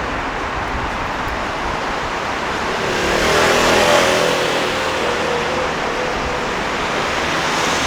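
Steady city street traffic noise, with one motor vehicle passing close about three seconds in, its engine swelling and then fading.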